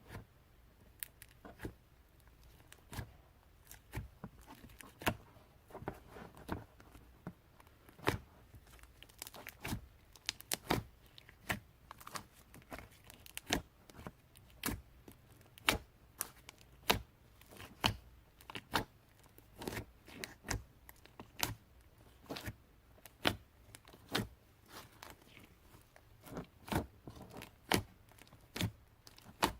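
Slime with clay mixed in, worked by hand and giving sharp crackling pops and clicks at irregular intervals, about one or two a second.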